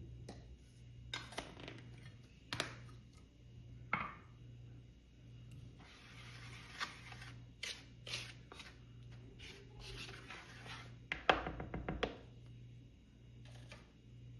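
Household objects being handled: scattered light knocks and clicks, with a quick run of clicks a little after eleven seconds. Under it runs a low hum that pulses about once a second.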